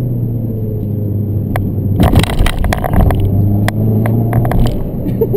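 Fiat 500 Abarth's 1.4-litre turbocharged four-cylinder engine running steadily, heard from inside the cabin while driving. About two seconds in comes a second of rough noise with several sharp knocks and rattles, followed by a few scattered clicks.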